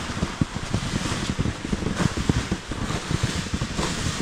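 Wind buffeting the microphone, an irregular low rumble over a steady hiss.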